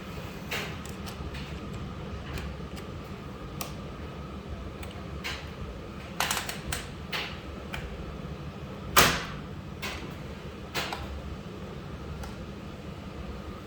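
Miele W761 front-loading washing machine running empty, a steady low rumble with irregular clicks and knocks, the loudest about nine seconds in.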